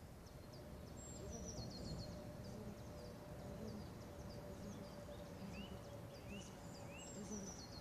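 Songbirds singing: a high trill that drops in pitch at its end, heard twice, and a few short rising whistled notes from another bird about two-thirds of the way through, over a faint steady hum.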